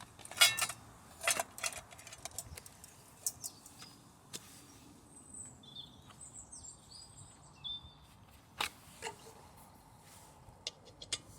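Scattered sharp clicks and knocks of gear being handled, loudest in the first second or two, with a small bird chirping several times in the middle.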